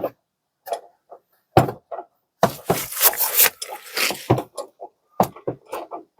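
Hand tools knocking and clicking against the truck's shock absorber mounting as the old shock is worked loose. There are several sharp separate knocks, then a rough rasping stretch lasting about two seconds, starting about two and a half seconds in.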